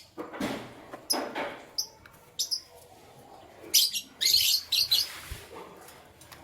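Canaries chirping: a few short high chirps, then a quick, loud run of song about four seconds in. A couple of duller, noisier sounds come in the first second or so.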